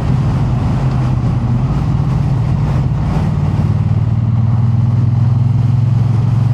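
Triumph Bonneville T100 parallel-twin engine running steadily under way at cruising speed, growing slightly louder in the second half.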